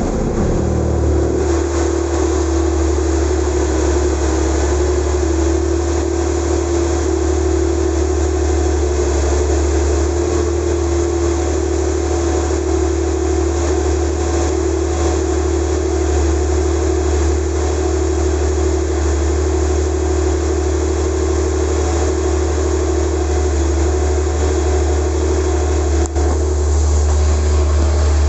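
Porsche 911 Turbo's turbocharged flat-six idling steadily just after a cold start, its revs settling down from the start-up flare in the first second or two.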